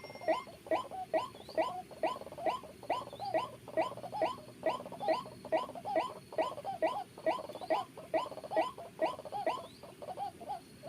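White-breasted waterhen (ruak-ruak) calling in a fast, even series of short swooping notes, about two to three a second.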